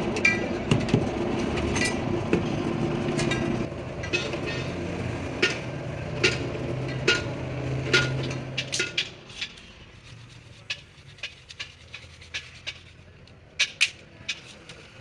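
A steady mechanical hum with sharp metal clinks and taps over it; the hum stops about nine seconds in, leaving scattered metallic clinks.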